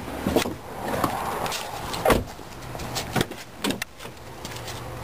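A car door being worked: a run of sharp latch clicks and knocks, the loudest about two seconds in, and a faint steady low hum after about two and a half seconds.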